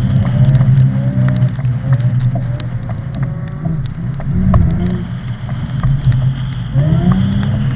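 Car engine being revved hard, its pitch climbing and dropping again and again as the car is driven.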